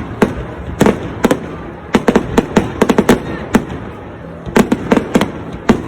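New Year fireworks going off: many sharp bangs at irregular intervals, some in quick runs of several, over a steady background rumble.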